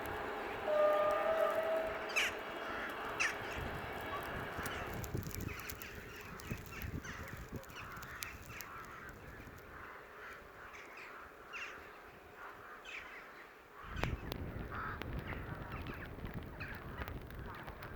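Crows cawing again and again over a low rumbling background that rises sharply about fourteen seconds in. A brief steady tone is heard about a second in.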